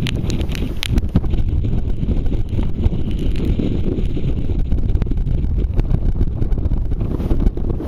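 Strong wind buffeting the microphone, a heavy, steady, churning rumble.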